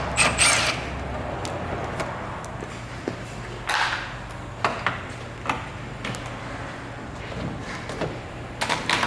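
Scattered knocks, clicks and short scrapes of car parts and tools being handled during front-end collision repair, over a steady low hum.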